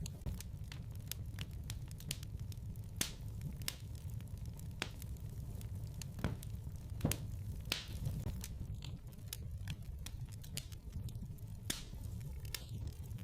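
Wood fire crackling in a fireplace: irregular sharp pops and snaps over a steady low rumble of the flames, with a few louder pops in the middle.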